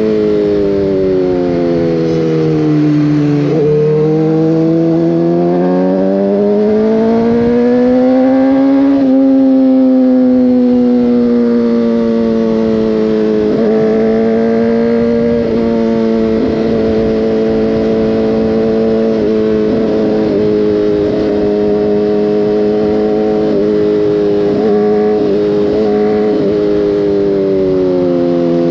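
Motorcycle engine under way: the revs fall for about three seconds, climb steadily until about nine seconds in, then hold fairly even with several brief dips as the throttle is eased and reopened.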